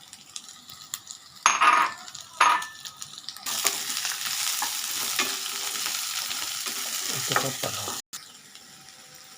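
Chicken sausage pieces frying in hot oil in a pan and being stirred: two short loud scrapes early on, then a steady sizzling hiss from about three and a half seconds in that cuts off suddenly about a second before the end.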